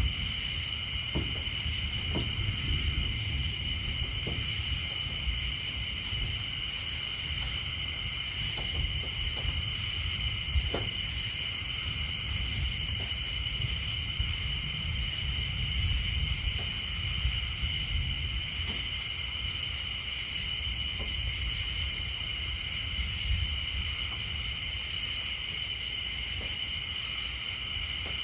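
Night chorus of insects and tree frogs: steady high trilling, with a higher buzz that comes and goes about every two seconds, over a low rumble and a few scattered light taps.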